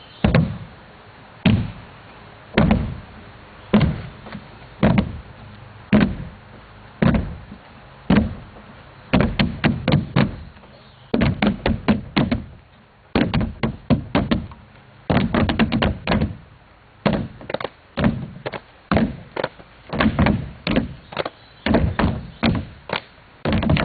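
A rhythmic percussion beat of sharp knocks, evenly about one a second at first. About nine seconds in it turns into faster, syncopated groups of knocks.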